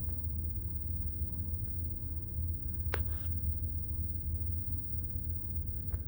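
A steady low rumble with a single sharp click about three seconds in.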